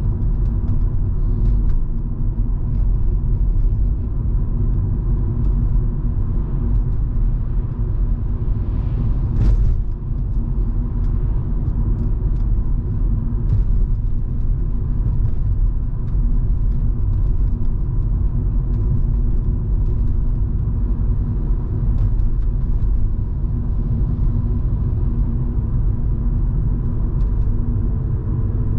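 Volvo V70 2.5T on the move: a steady engine and road rumble with a faint constant hum over it. A single sharp knock sounds about nine and a half seconds in.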